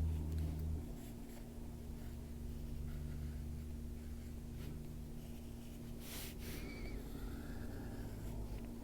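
Coloured pencil scratching softly on paper in steady shading strokes, over a low steady hum, with a brief louder scratch about six seconds in.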